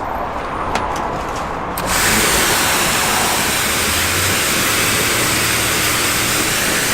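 Pressure washer in use: the motor and pump hum, then about two seconds in the jet opens with a loud, steady spray hiss that holds until it stops near the end.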